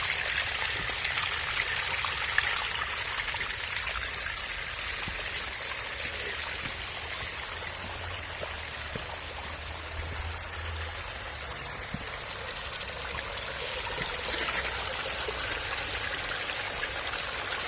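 Water trickling and splashing steadily down a backyard stone waterfall feature into its pool.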